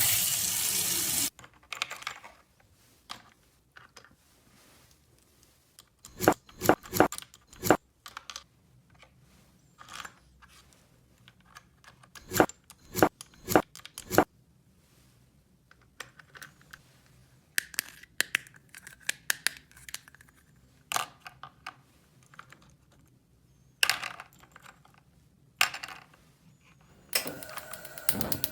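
Small plastic toy parts being handled: scattered clicks and taps, with a short rustling burst at the start. Near the end a rapid, even ratcheting click begins.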